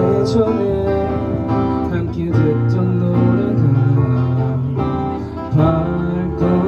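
Small live band playing a ballad's instrumental intro: strummed acoustic guitar over bass, keyboard and cajon, with the bass and chords moving every second or two.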